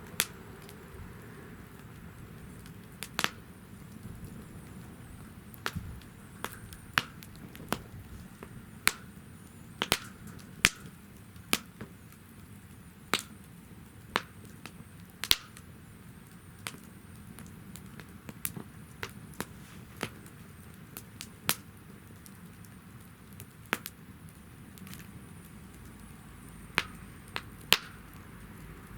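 Wood fire burning in a fire pit stand, crackling with irregular sharp pops and snaps over a low steady hiss.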